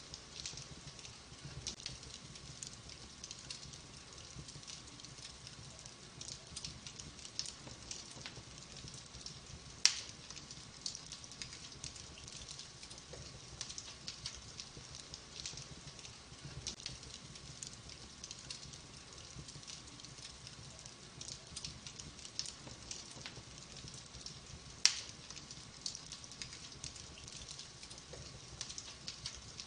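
Wood fire crackling in a fireplace, a steady scatter of small snaps and ticks over a soft low rush, with two loud sharp pops from the burning logs, one about a third of the way in and another later.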